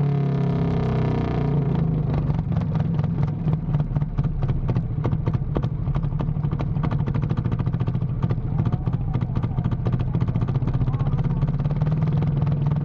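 An engine running hard and steadily, with a fast clatter of firing strokes over a deep hum. For the first second or so there are gliding tones as well.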